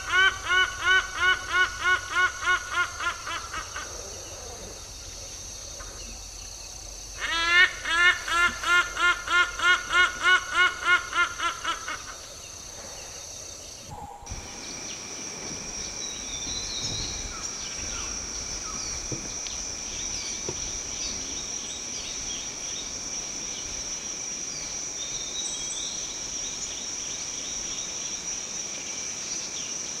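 A bird calling in two series of loud, repeated guttural notes, about four a second, each fading away: one ends about three seconds in, the other runs from about seven to twelve seconds. From about fourteen seconds, forest ambience follows: a steady high insect drone with scattered bird chirps.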